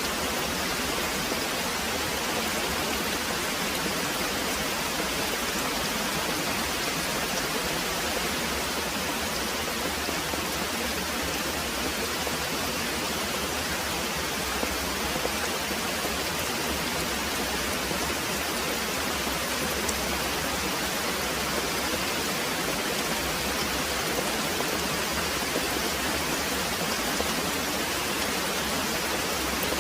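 Very heavy rain pouring steadily, an even, unbroken hiss of falling water.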